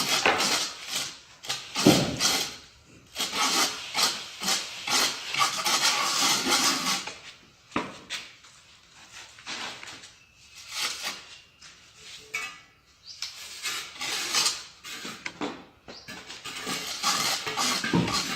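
Tiling work: a mason's trowel scraping and tapping on mortar and tile in irregular strokes, with a quieter spell in the middle.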